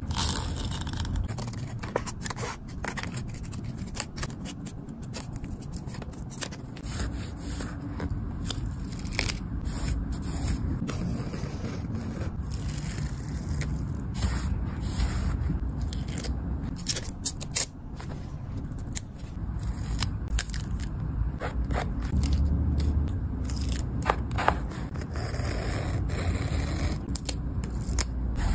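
Close-up crafting sounds of scissors snipping through paper and tape, with scraping and rustling of paper between the cuts. There are many short, crisp snips and clicks throughout.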